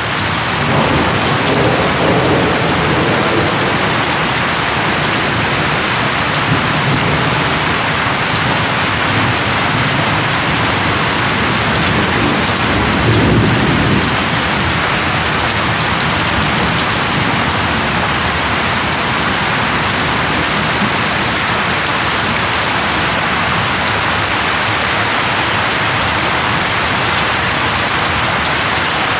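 Steady, dense rain falling, with low rumbles of thunder about a second in and again near the middle.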